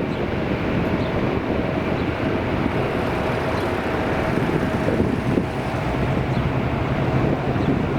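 Airbus A330-300 jet engines on landing approach, a steady rush with a faint whine, mixed with wind buffeting the microphone.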